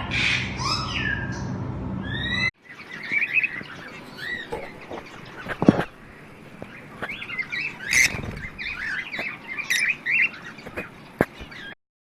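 A flock of aviary parrots chirping and squawking: many short overlapping calls. Louder calls over a low hum for the first couple of seconds, then an abrupt change to a busier chatter with a sharp click about halfway through.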